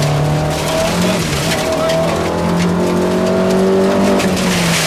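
Opel Ascona A rally car's 1.9-litre four-cylinder engine heard from inside the cabin, running hard under load. Its pitch dips briefly near the start, then climbs slowly and steadily before easing off near the end.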